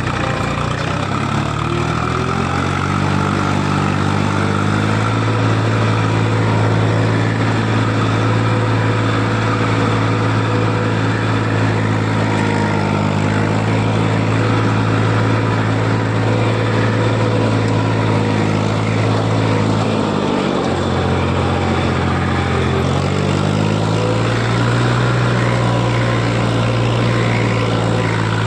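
Tractor engine running while driving: its pitch climbs over the first few seconds and then holds steady, dips briefly about twelve seconds in, drops to a lower pitch about twenty seconds in, then climbs back up and holds.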